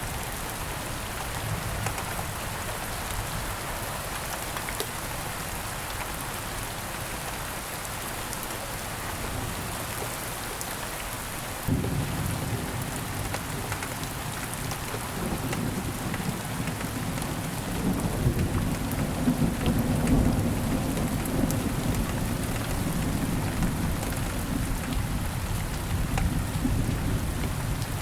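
Steady rain falling, an even hiss of drops. About twelve seconds in a low rumble of thunder comes in suddenly, swells for several seconds and rolls on under the rain.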